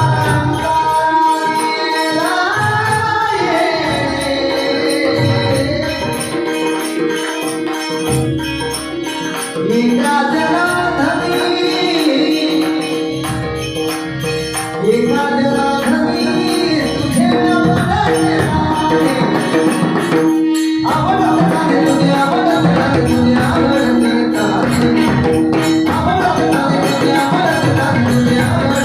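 A male voice singing a Marathi gaulan, a devotional song, with rhythmic hand-drum and jingling percussion accompaniment and steady held tones beneath. The music breaks off briefly about two-thirds of the way through.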